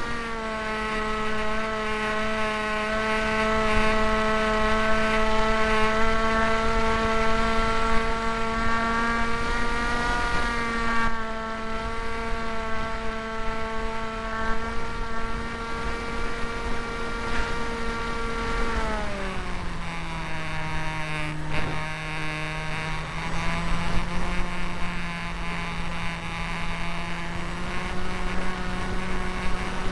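Electric motor and propeller of a Hawk Sky radio-controlled foam plane running steadily at a constant pitch, then throttled back about two-thirds of the way through, settling to a lower steady pitch. Wind rumble underneath.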